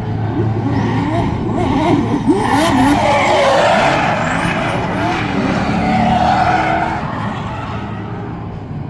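A performance car drifting: its engine revs rise and fall rapidly while the tires squeal, loudest through the middle and easing off toward the end.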